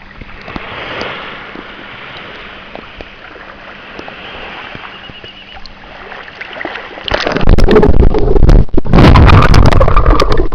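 Sea water around the camera: a muffled gurgling hiss with a faint steady hum, then about seven seconds in, loud rough splashing and buffeting with many knocks.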